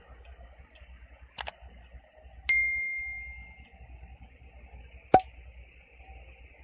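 A single clear, bell-like metallic ding rings out once and fades over about a second. A few sharp clicks fall before and after it, over a steady faint hiss.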